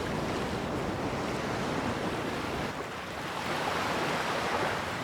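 Sea surf washing with wind, an even rushing noise that swells with a wave a little past halfway.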